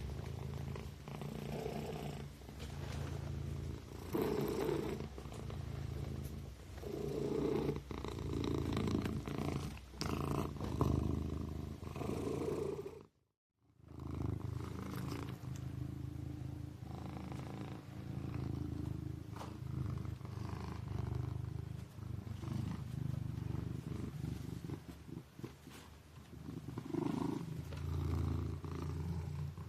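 A kitten purring steadily, the purr swelling and easing with each breath every second or two. The sound cuts out completely for about a second near the middle, then resumes.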